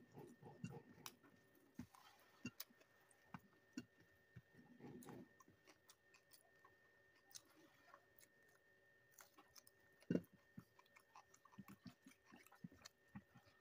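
Faint close-miked chewing: a person eating, with small wet mouth clicks and smacks scattered throughout. There is one sharper, louder click about ten seconds in.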